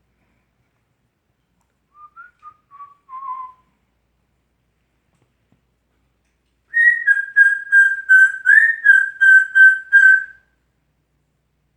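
African grey parrot whistling: a soft phrase of four falling notes, then a few seconds later a louder run of about ten quick notes on one pitch, with a brief upward slide partway through.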